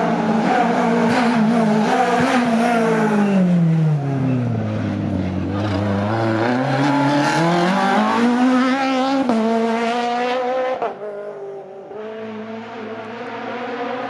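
Rally car engine coming off the throttle into a corner, its revs falling steadily for a couple of seconds, then accelerating hard with the revs climbing and a gear change. About eleven seconds in the sound drops away suddenly, and engine sound builds again near the end.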